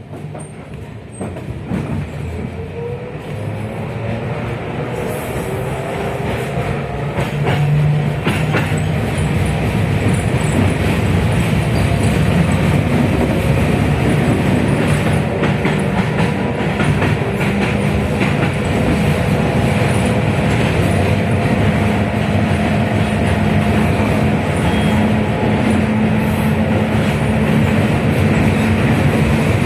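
71-619KT tram pulling away and accelerating. Its contactor-transistor (KTSU) traction drive and KR-252 motors whine, rising in pitch over the first several seconds and growing louder. It then runs at a steady speed with a constant whine and the rumble and clatter of wheels on rail.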